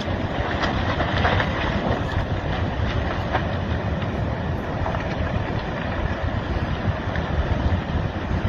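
Massive landslide sliding into the sea: a steady rumbling rush of earth and debris, with several sharp cracks and snaps in the first few seconds.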